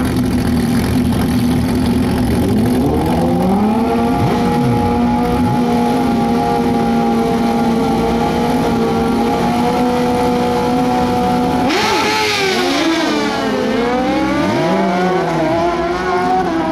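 Suzuki GSX-R 1000 sport bike's inline-four engine at the drag strip start line, revs raised about three seconds in and held steady. About twelve seconds in it launches at full throttle and pulls away, its pitch dropping and climbing again as it shifts up through the gears.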